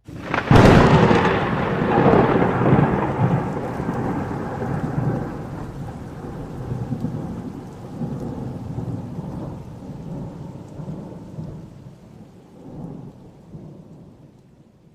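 Thunder: a sudden loud crack about half a second in, then a long rolling rumble that slowly fades away.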